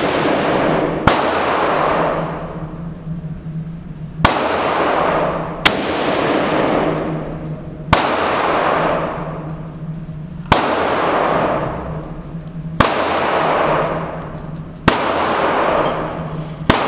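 Handgun shots fired one at a time, about eight in all at an irregular pace of one every two seconds or so, each sharp report followed by a long echoing decay of the range.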